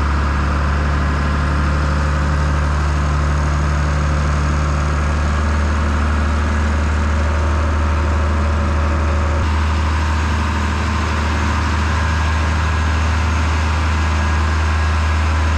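International Harvester tractor diesel engine running steadily at a constant, even speed.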